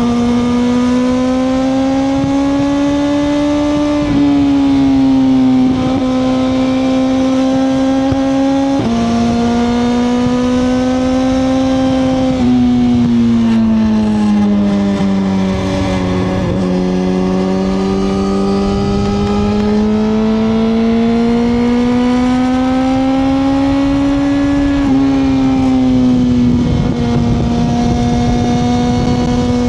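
2021 Suzuki GSX-R1000R's inline-four engine on the move, heard on board: its note climbs slowly under throttle, dips for a few seconds about halfway through as the bike slows, then climbs again, with sudden shifts in pitch at gear changes. A steady rush of road and wind noise runs underneath.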